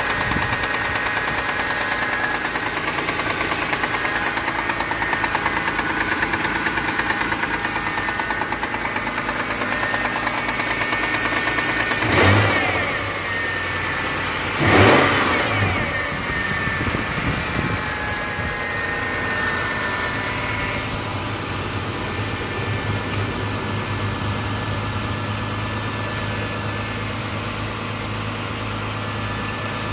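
Mitsubishi 6G72 V6 engine running cold with a fast, regular knock, revved briefly twice near the middle. The knock lasts only the first minute or two after a cold start, and the owner suspects the hydraulic lifters.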